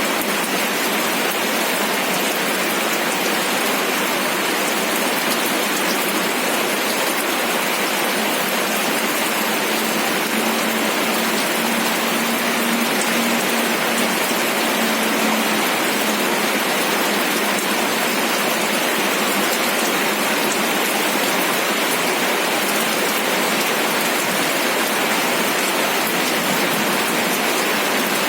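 Steady rain, an even continuous patter of drops. A faint low hum comes in for several seconds in the middle.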